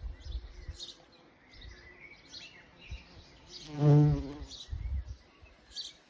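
A bumblebee buzzes close past the microphone once, about four seconds in, for around half a second, the loudest sound here. Small birds chirp repeatedly around it, over low gusts of wind rumble.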